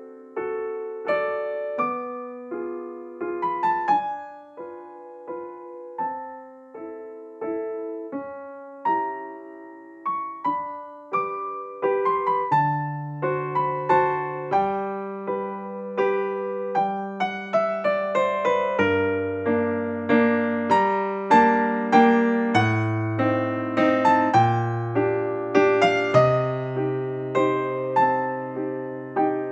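Background piano music: a gentle melody of separate struck notes. A lower bass part joins about twelve seconds in.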